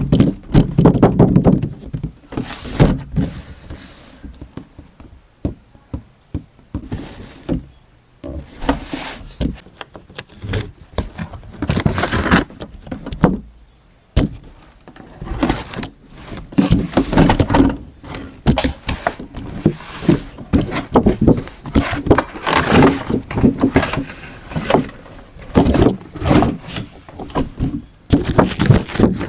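Hands handling and opening toy packaging: irregular clicks, knocks and short rustles of plastic and cardboard.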